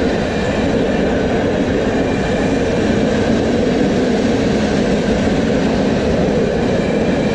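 Freight train of bulk cement tank wagons rolling past close by: the steady, loud running noise of wagon wheels on the rails.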